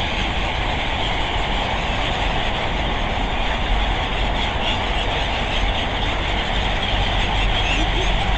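Steady road traffic noise with a continuous low rumble, with no single vehicle standing out.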